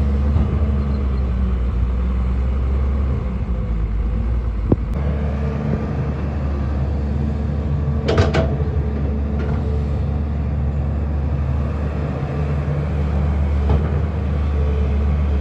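Excavator diesel engine running steadily at worksite load, with a short metallic clank a little past halfway and a couple of sharper clicks.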